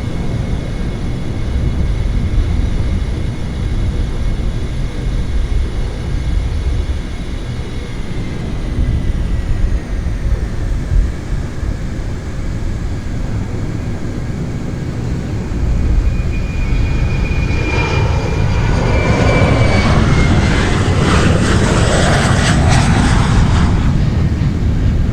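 Jet airliner engines running with a steady rumble and a high whine. The whine slides down in pitch about eight seconds in. The sound grows louder in the last third, where a second whine slides down.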